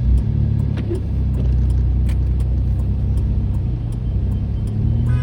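Car driving, a steady low engine and road rumble that grows a little louder about a second and a half in.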